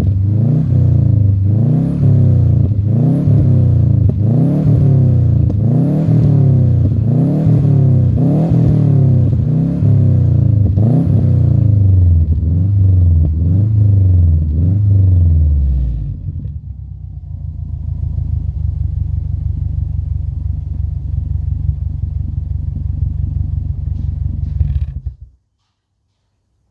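Subaru Forester SG9's turbocharged 2.5-litre flat-four running through a custom exhaust, blipped repeatedly about once a second, each rev rising and dropping back. It then settles to a steady idle and cuts off suddenly near the end.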